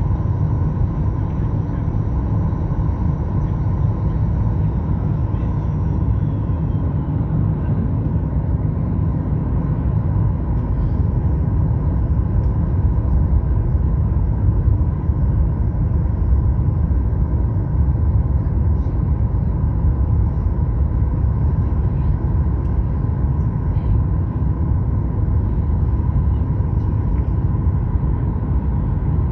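Steady cabin noise of a Boeing 737 MAX-8 in flight, heard from a window seat: a deep, even rumble of the CFM LEAP-1B engines and the airflow over the fuselage, with a faint steady whine.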